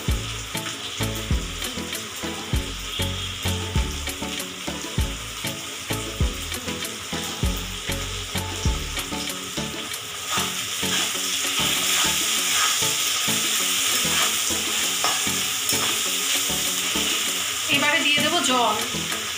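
Onions, tomato and green chillies sizzling in hot mustard oil in a metal kadai, with a metal spatula stirring and scraping against the pan. The knocking of the spatula is plain for the first half; about ten seconds in the sizzle grows louder.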